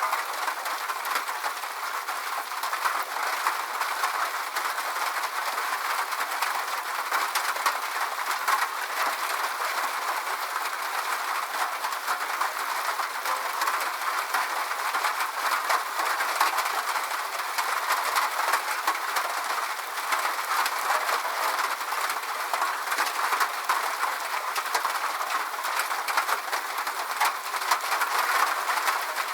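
Steady rain: an even hiss of falling drops, thick with small sharp ticks, without any deep rumble or thunder.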